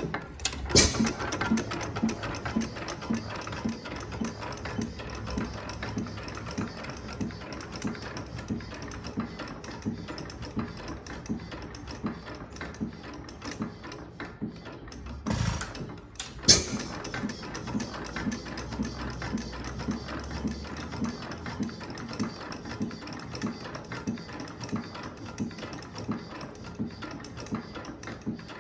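6 hp Armstrong hit-and-miss engine running, its valve gear and governor clicking in a steady rhythm of about two to three clicks a second. Two louder bangs break in, about a second in and again around sixteen seconds in.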